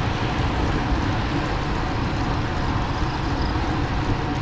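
Steady rumble and rush of a bicycle in motion: tyre and wind noise on the rider's camera microphone.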